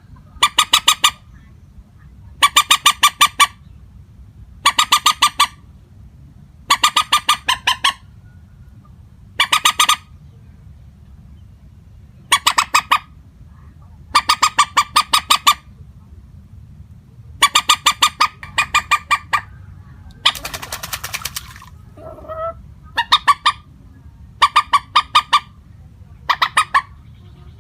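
Common moorhen calling: bouts of rapid, stuttering clicking notes, each about a second long, repeated roughly every two seconds with no change in tone. About twenty seconds in, one harsher, noisier call lasts over a second.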